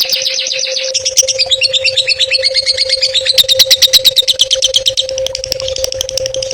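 Songbird singing a fast, rolling run of repeated sharp chattering notes, loudest in the middle. A steady low hum runs underneath.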